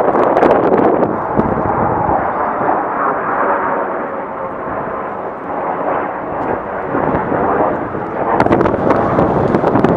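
Lockheed L-1011 Tristar's three turbofan engines at takeoff power, a loud steady rumble of jet noise. It eases a little midway, then swells again with a crackle near the end.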